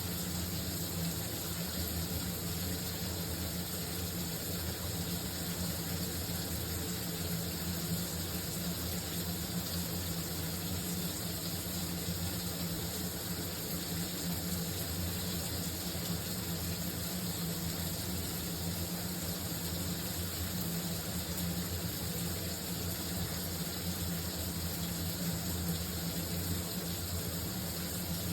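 Shower running steadily: an even hiss of spraying water with a low steady hum underneath.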